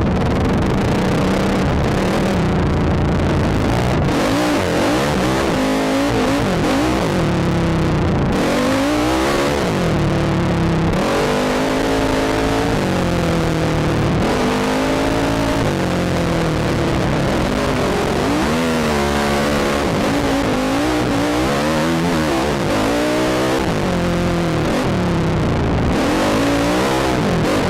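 ATV engine revving up and down over and over as the quad is worked through sand, its pitch climbing and falling every second or two.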